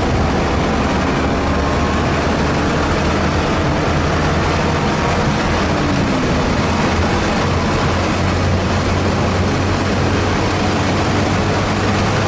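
Car engine running steadily with constant road and wind noise, heard from inside the cabin; its low drone grows stronger about halfway through.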